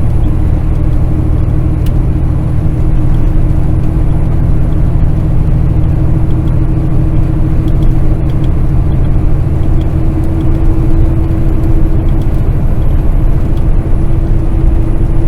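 Kenworth semi truck cruising on the highway, heard inside the cab: a steady diesel engine drone with road and tyre noise. The engine's pitch edges up slightly in the second half as the truck picks up speed.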